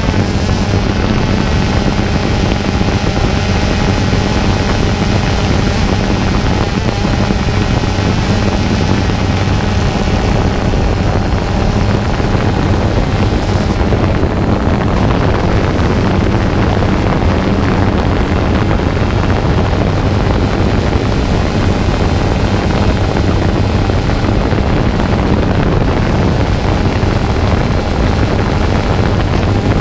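Quadcopter drone's electric motors and propellers running steadily, heard close up on the on-board camera: a constant hum with a higher whine above it, unbroken throughout.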